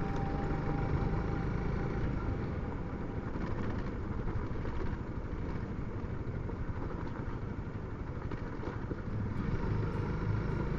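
Honda CRF300L single-cylinder motorcycle engine running while riding, a steady rumble mixed with wind noise, heard through a Bluetooth helmet intercom microphone.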